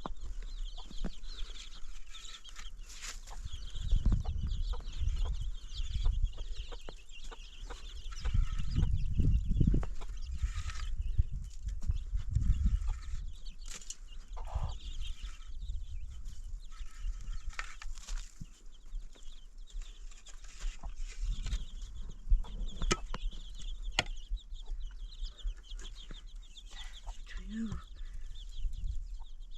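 Clucking and chirping of fowl-like birds over frequent sharp knocks and clatter, with several heavy low rumbles.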